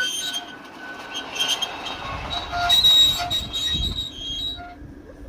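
5-inch gauge live-steam miniature train running on its track, with a low rumble and short, intermittent high-pitched wheel squeals.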